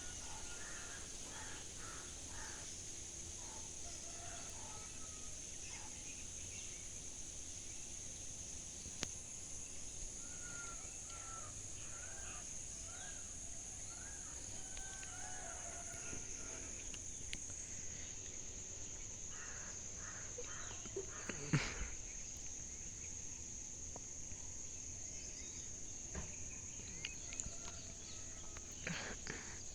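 Outdoor ambience of a steady high-pitched insect drone with scattered short bird calls, in small runs of chirps. A single sharp knock about two-thirds of the way in is the loudest sound, with a few more clicks near the end.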